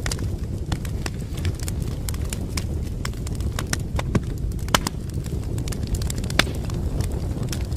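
Wood fire crackling: irregular sharp pops and snaps, a few louder ones, over a steady low rumble of burning.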